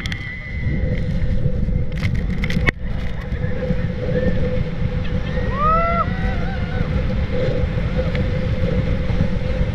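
Steady drone of the speedboat engine towing the banana boat, over heavy wind rumble on the microphone, with a few sharp knocks about two to three seconds in.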